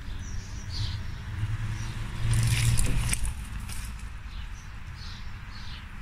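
Small birds chirping faintly in short high calls over a steady low rumble, with a louder rushing burst about two seconds in.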